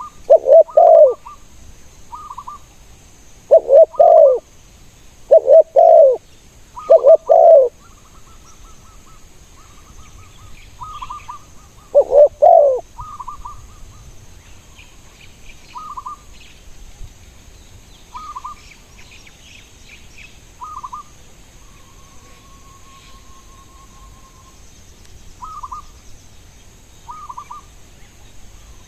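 Spotted dove cooing loudly in short repeated bursts, six or so in the first half, then falling silent. Fainter short chirping calls of other birds go on throughout.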